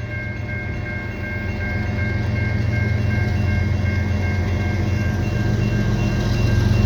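Diesel locomotives of an approaching CN freight, two GE ES44DC units, running with a deep steady throb that grows louder. A level-crossing warning bell rings in even pulses above it.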